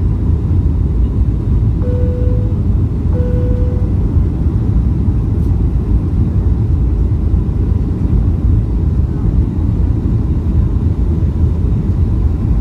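Steady low roar of a Boeing 737-800's engines and airflow heard inside the cabin during the descent to land, with two short single-pitch chime tones about a second apart near the start.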